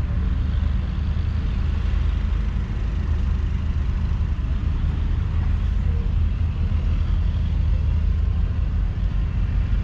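Massey Ferguson 8S.305's 7.4-litre six-cylinder diesel engine running steadily at an even speed.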